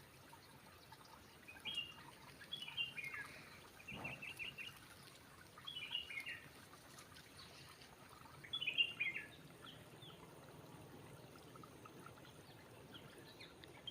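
Bird calls: short chirping phrases that slide downward in pitch, repeated every two to three seconds, with one quicker run of chirps about four seconds in, over a faint steady background noise.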